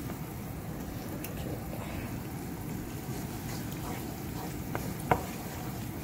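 Chopped onions and ginger-garlic paste sizzling in oil in a frying pan as a wooden spoon stirs them, with two short knocks of the spoon against the pan about five seconds in.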